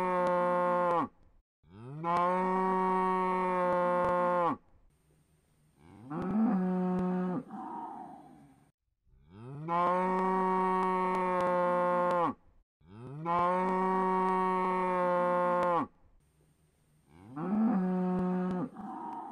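A cow mooing in a series of long, steady moos of two to three seconds each, separated by short pauses. Every third moo is shorter, rising in pitch at its start and ending in a breathy huff. The same sequence of three moos repeats, like a looped recording.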